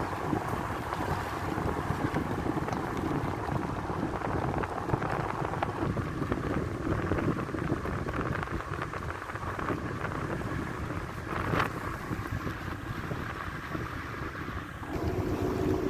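Wind buffeting the microphone over a steady low rumble, with one short sharp knock about eleven and a half seconds in.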